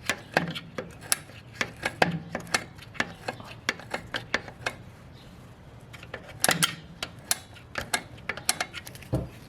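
Sharp metallic clicks, several a second with a short lull midway, from turning the star-wheel adjuster of a 2008 Toyota Hilux's rear drum brake notch by notch to set the new brake shoes.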